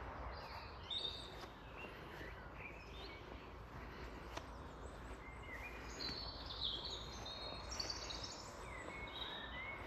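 Woodland birdsong: several songbirds chirping and singing in short phrases, busiest in the second half, over a steady low background rumble.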